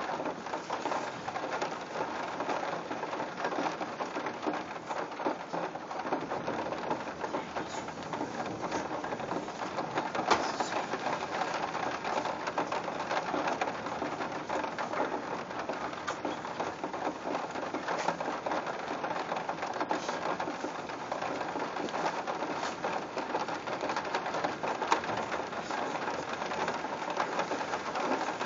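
Steady rain falling during a thunderstorm, with scattered sharp ticks of drops striking nearby surfaces; a couple of louder ticks stand out about ten seconds in and near the end.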